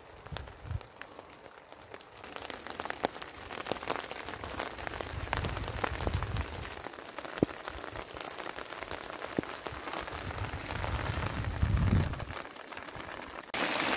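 Rain falling on the Onetigris Cosmitto tent's fabric, with many separate drops striking as sharp ticks over a steady hiss and a few low rumbles now and then. Near the end the rain sound turns suddenly louder and more even.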